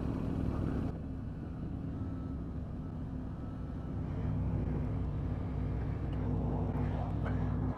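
Motorcycle engine running steadily at low revs, slowing into a car park, with a shift in the sound about a second in.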